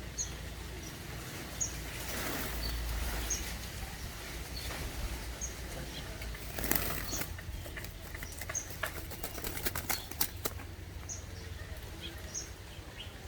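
Green pigeon (punai) fluttering and flapping its wings in bursts, with a flurry of sharp wing-beat clicks past the middle, over faint high chirps repeating about once a second.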